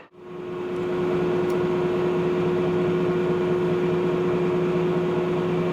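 A machine running steadily in the shop: an even mechanical hum with one constant mid-pitched tone over a lower one, starting right after a brief cut to silence.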